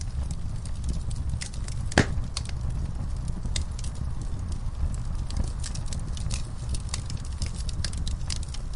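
Wood logs and coals burning in a camp fire pit, crackling and popping irregularly, with one loud pop about two seconds in, over a steady low rumble.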